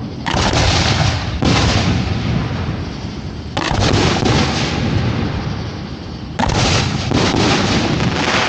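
Aerial fireworks going off at close range: about six sharp bangs, each followed by a long rumbling tail, the last three coming close together in the second half.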